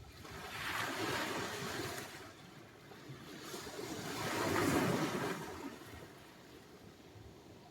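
Sea waves breaking and washing on the shore, two surges of surf, the second louder, each swelling and fading away.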